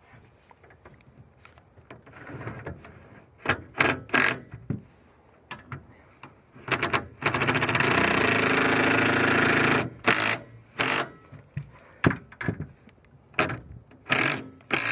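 Hand socket ratchet clicking as bolts are run in and tightened: scattered single clicks and knocks, with a steady run of very fast ratchet ticking for a couple of seconds about midway.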